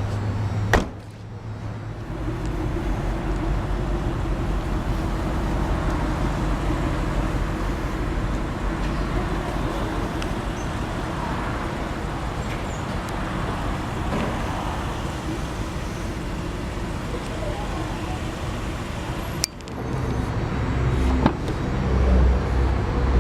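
Steady background traffic and vehicle rumble, with one sharp knock about a second in.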